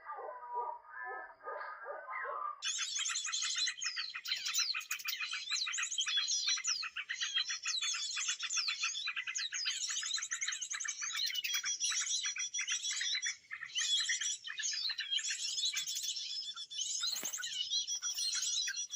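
Small songbirds chirping rapidly and continuously; about two and a half seconds in the sound changes abruptly to a higher, denser chatter of quick, sliding chirps.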